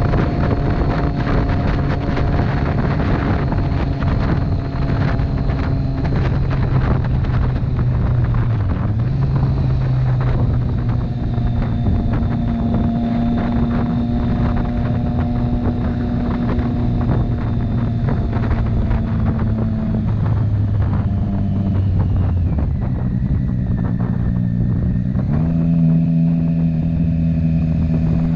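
Motorcycle engine running under way, with heavy wind rushing over the microphone. The engine note shifts in pitch in steps a few times, as with gear changes or throttle changes.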